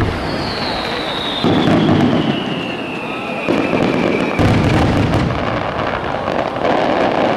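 Starmine fireworks barrage: several heavy shell bursts boom in turn, about a second and a half in, at three and a half, at four and a half, and near the end. A long whistle falls in pitch over the first four seconds, and a patch of sharp crackling follows the third burst.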